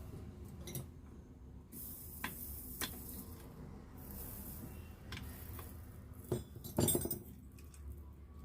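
Metal clinks from tools and alternator parts being handled during reassembly: a handful of separate sharp clinks, with the loudest cluster about seven seconds in.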